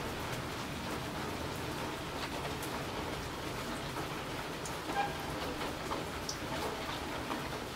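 Steady rain falling, with many scattered single drops and drips ticking through it and one louder drip about five seconds in.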